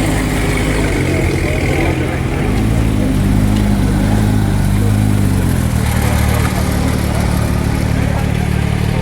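Car engine running and revving. Its pitch rises about two seconds in, holds, and falls back by about six seconds.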